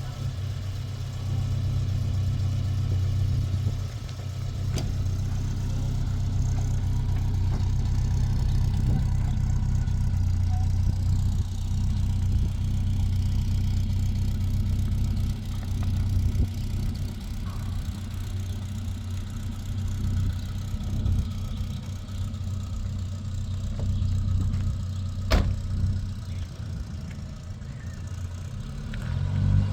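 A car driving, its engine and road noise a steady low drone, with one sharp click about 25 seconds in.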